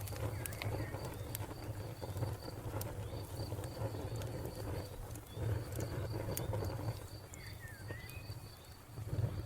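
A fire burning with a steady low rumble and scattered sharp crackles and pops. Over it a cricket chirps in an even pulse, about four chirps a second, and a bird gives a short call near the start and again near the end.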